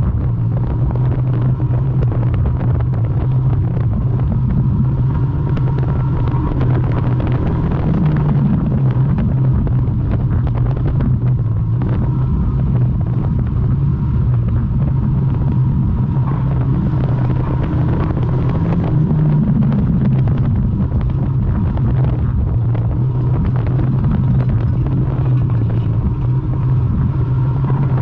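Morris 1100's four-cylinder engine running hard inside the car's cabin, heard loud and steady with small swells as the throttle is worked. Frequent short knocks and rattles from the car's stripped body run through it.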